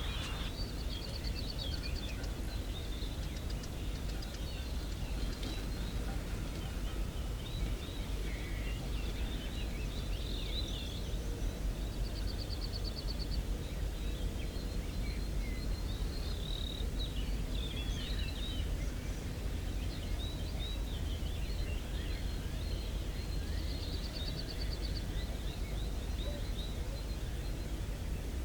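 Outdoor countryside ambience: a steady low rumble under scattered chirps from small birds, with a short high trill heard three times, roughly eleven seconds apart.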